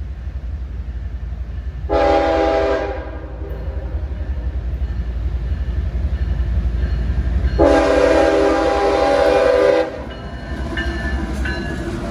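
CSX freight locomotive's horn sounding one short blast, then a long blast lasting about two seconds, over a steady low rumble.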